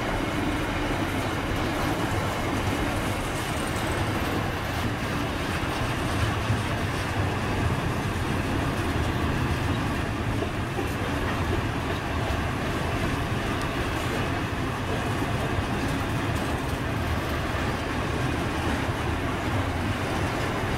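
Freight train's boxcars rolling past on the rails: a steady noise of wheels and cars that does not change over the seconds.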